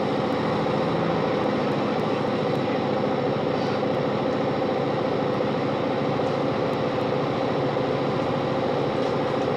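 Class 165 diesel multiple unit running at speed, heard inside the carriage: a steady drone from the underfloor diesel engine under the even rush of wheels on rails.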